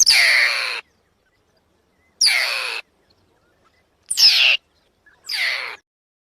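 Four harsh animal calls, each under a second long and falling steeply in pitch, spaced a second or so apart.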